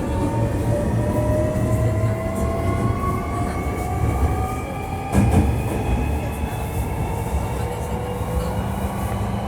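Hankyu 1300 series train's Toyo IGBT-VVVF traction inverter and motors whining as it accelerates, several tones climbing slowly and steadily in pitch over the low rumble of the running gear. A single knock from the wheels comes about five seconds in.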